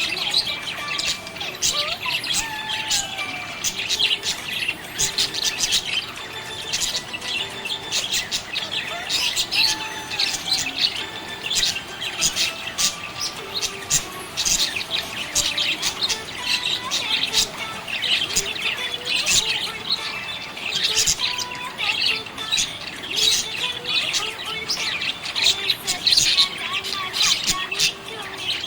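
Several budgerigars chirping and chattering continuously, with quick overlapping high chirps and warbles.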